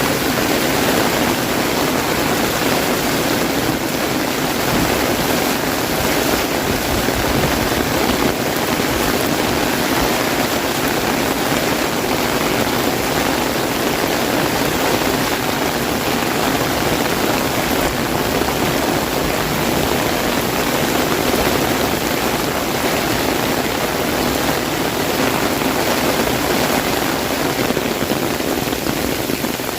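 Heavy rain falling on an umbrella overhead: a loud, steady, dense hiss with no separate drops standing out.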